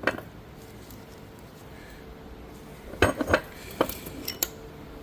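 Steel manual-transmission gears and parts clinking and knocking against each other as they are handled and fitted back onto a shaft: one knock right away, a quick cluster of clinks about three seconds in, and a few more near the end.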